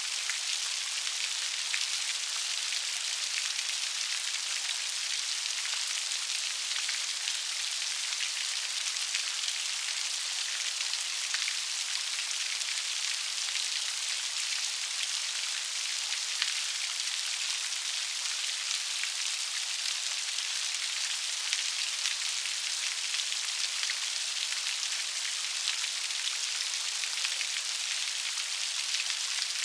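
Steady rain falling, an even hiss of many fine raindrop ticks, with little low rumble.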